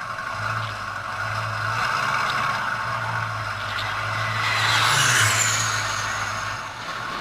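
Aircraft engine noise swelling to a peak about five seconds in, with a high whine that falls in pitch, then easing off over a steady low hum.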